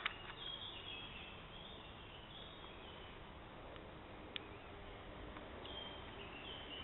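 Faint woodland background noise with several short, high bird chirps scattered through it, and two brief clicks: one at the very start and one just past halfway.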